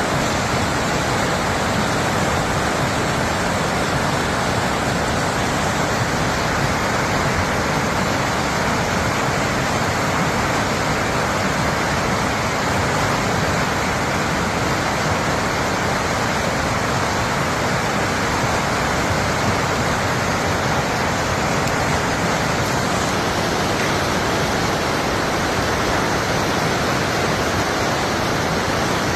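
Steady rush of fast-flowing river water, an even noise that does not change.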